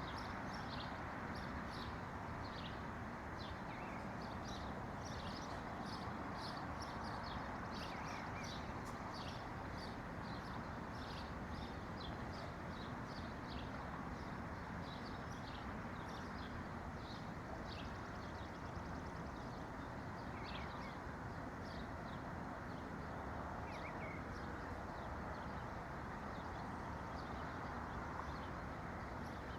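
Small songbirds chirping, many short high calls in quick succession that thin out in the second half, over a steady rushing background noise.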